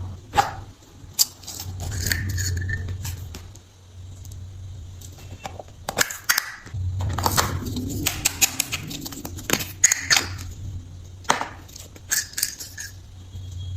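Slime being pressed and worked by hand, giving irregular sharp clicks and snaps over an intermittent low hum.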